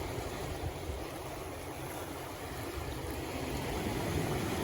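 Steady wash of sea waves mixed with wind buffeting the microphone.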